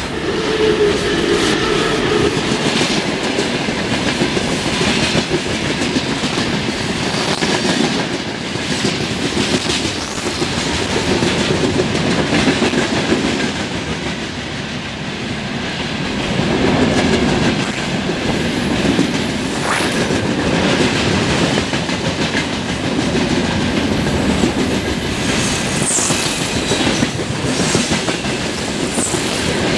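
Freight train of open gondola wagons rolling past close by behind a VL-series electric locomotive, its wheels clattering over the rail joints in a continuous clickety-clack.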